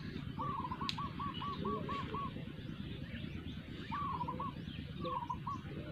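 A bird calling: a quick run of about eight whistled notes, then two shorter runs of three notes each a couple of seconds later, with fainter chirps of other birds in the background.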